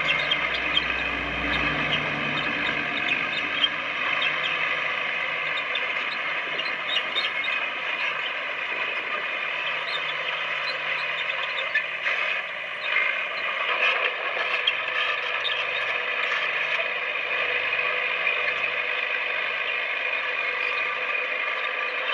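Komatsu D20P crawler bulldozer at work: its engine running steadily under a high metallic squeal, with scattered clicks and clanks.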